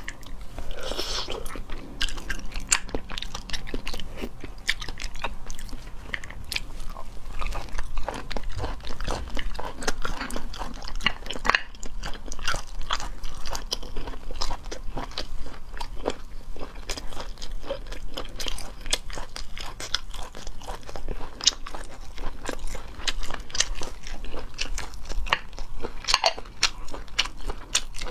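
Someone biting and chewing cooked moon snail meat, with many short crunchy clicks throughout.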